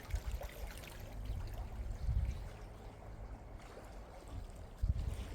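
Ocean waves washing on the shore, with wind buffeting the microphone in gusts, loudest about two seconds in and near the end.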